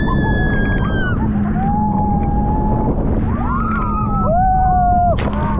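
Several riders screaming and whooping in long held cries that rise and fall, overlapping one another, over a steady low motor hum and a rush of wind and water.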